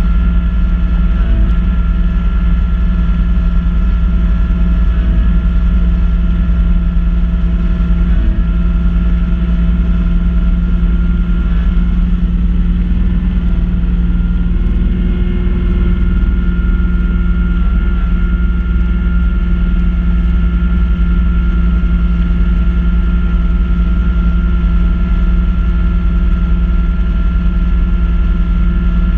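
Kubota B2650 compact tractor's three-cylinder diesel engine running steadily while driving a front-mounted snow blower. Its tone shifts slightly about halfway through.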